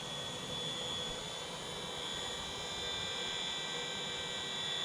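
Small electric RC helicopter in flight: a steady high-pitched whine from its motor and rotor, edging slightly higher in pitch about two seconds in.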